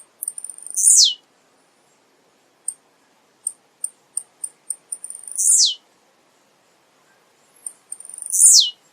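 Male blue-black grassquit (tiziu) singing its short buzzy song three times, each a quick high sweep falling steeply in pitch, with a run of short, soft high ticks between the songs.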